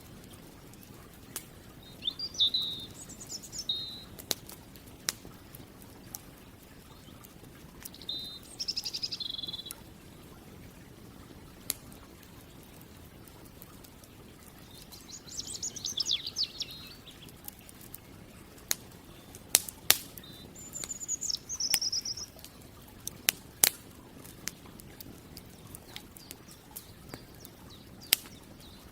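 Birds singing in short phrases a few seconds apart, with sharp pops and crackles from a wood campfire scattered between them.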